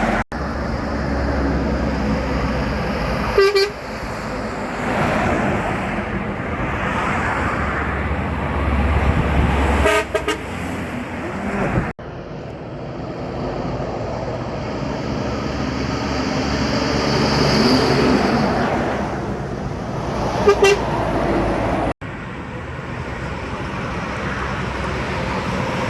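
Heavy trucks passing on a highway, engine and tyre noise swelling and fading, with a short horn toot three times. The sound cuts off abruptly twice where the recording jumps between passes.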